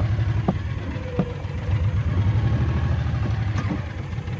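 An engine running steadily at idle, with an even low pulse. There are a couple of light knocks in the first second or so.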